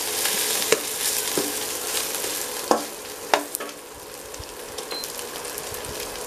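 Dried anchovies frying in oil in a stainless steel kadai, sizzling steadily as a perforated metal spatula stirs them, scraping and clinking against the pan a few times. The sizzle eases off a little after about three and a half seconds.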